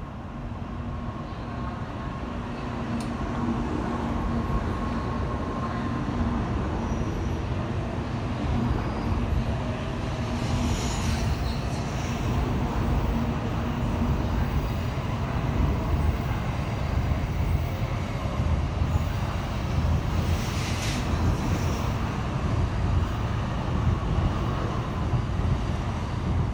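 N700 series Shinkansen train pulling out of the station and accelerating past, a low rumble of wheels and running gear that grows louder over the first few seconds and then holds steady. A faint steady whine fades out after several seconds.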